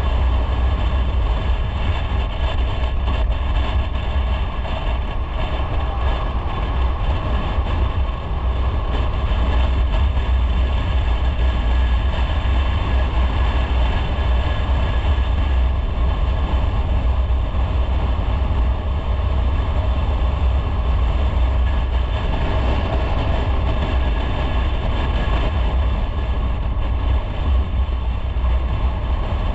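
Motorcycle being ridden at a steady pace: a continuous low engine drone mixed with wind and road noise.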